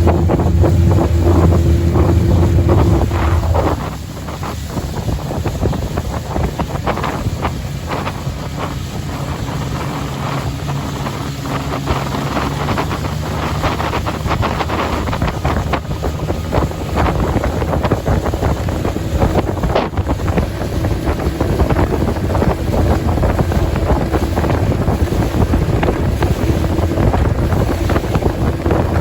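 A boat's engine runs under a rush of wind on the microphone and water noise. The engine's steady hum drops away about three and a half seconds in, and a steadier tone comes back in the second half.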